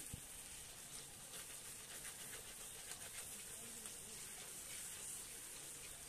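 Food frying in oil in an iron wok, a steady soft sizzle, with a spatula stirring and scraping against the pan now and then.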